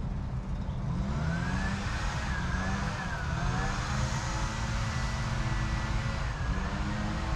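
A motor vehicle's engine hum, its pitch rising about a second in and then holding with slight wavers, over a steady low rumble.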